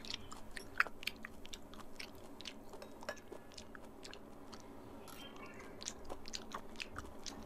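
A person chewing a mouthful of boiled pork offal (lòng), making a steady run of small, irregular wet mouth clicks.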